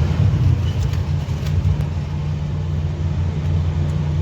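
Toyota Fortuner's four-cylinder diesel engine running steadily at idle, with only injectors 2 and 3 firing; injectors 1 and 4 are faulty.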